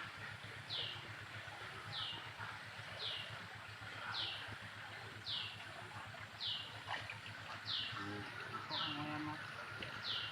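A bird repeating a short, high call about once a second, each note sliding down in pitch, over a steady background hiss.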